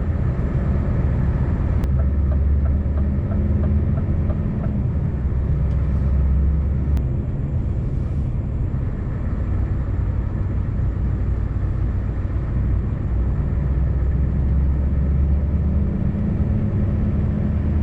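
Scania V8 truck engine running steadily at road speed, heard from inside the cab with road noise; the engine's low hum shifts slightly in pitch a couple of times.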